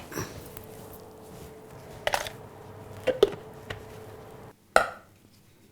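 A few light, separate knocks and clatters of kitchen handling as a toasted papad cone and small vessels are moved about. A faint steady hum runs underneath and stops abruptly about four and a half seconds in, just before the loudest knock.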